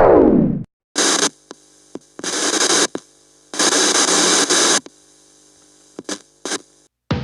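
A quick falling pitch sweep, then electrical static hiss with a hum that cuts in and out abruptly: three longer bursts and two short blips.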